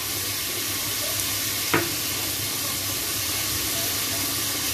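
Chicken pieces frying in oil in an aluminium pot, a steady sizzle, with a single sharp knock about two seconds in.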